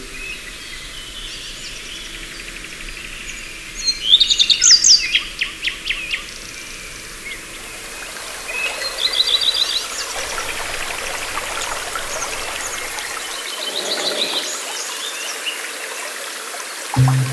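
Songbirds chirping and trilling in short bursts over a steady background hiss of outdoor ambience. The loudest rapid trills come about four seconds in and again about nine seconds in.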